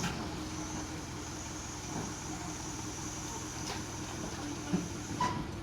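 Truck engine idling steadily, with a few short knocks over it.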